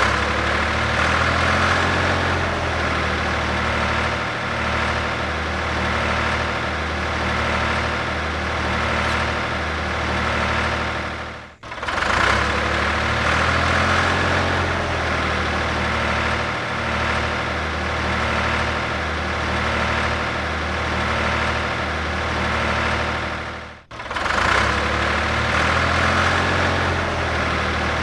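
Tractor engine running at a steady idle with a regular pulse. The sound breaks off for an instant and starts over the same way about every twelve seconds, twice, as a repeating loop.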